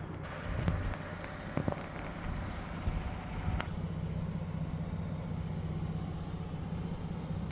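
A vehicle engine idling with a steady low hum, with a few light knocks and handling clatter in the first half.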